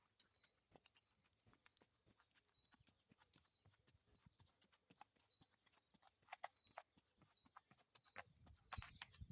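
Faint hoofbeats of a horse walking, soft irregular clip-clop with a few stronger hoof knocks near the end. Behind them, a short high chirp repeats about every half second over a thin steady high tone.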